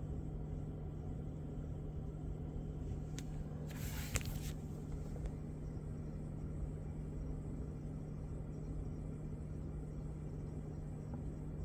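2021 Toyota Camry's air conditioning running with a steady low hum, broken about four seconds in by a click and a short hiss of under a second. The hiss is the kind of aircon hissing noise the owner is reporting as a fault.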